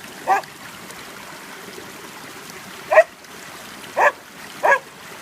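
A dog giving four short, high yips, one near the start and three close together from about three seconds in, over a running stream.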